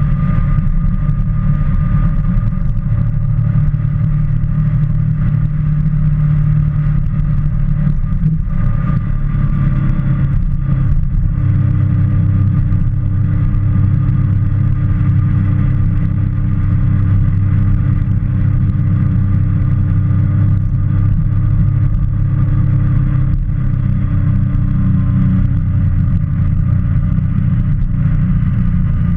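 Motorcycle engine running steadily under way, heard from the rider's position. The engine note changes about ten seconds in and then holds steady again.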